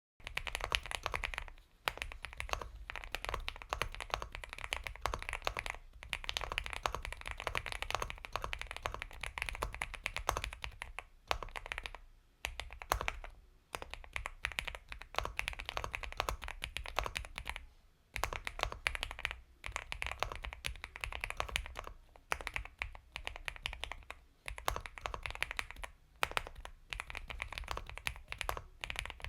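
Continuous typing on an Epomaker x Feker Galaxy 80 mechanical keyboard with Gateron Milky Yellow Pro linear switches: soft, creamy keystrokes in fast runs, broken by brief pauses every few seconds. It starts out of dead silence right at the beginning.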